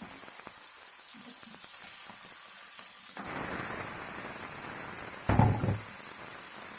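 Raw chicken pieces going into hot oil in a pan, which breaks into a steady sizzle about three seconds in. A short, loud knock comes about two seconds later.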